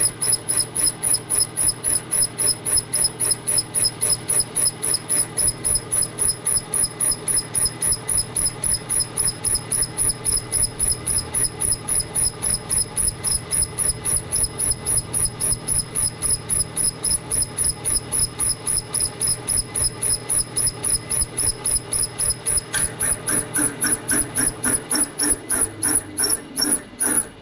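Boring head on a milling machine boring the cylinder bore through an engine frame: a steady whine with an even pulse about four times a second. Near the end the high whine stops and the pulsing changes as the tool reaches the bottom of the bore.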